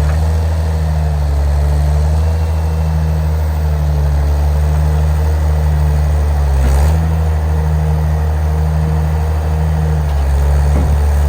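A vehicle engine running steadily, its low drone wavering slightly in pitch, with a brief knock about seven seconds in.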